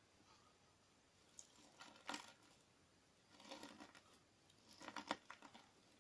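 Clear slime mixed with crunchy sand being squished, giving three short bursts of gritty crackling.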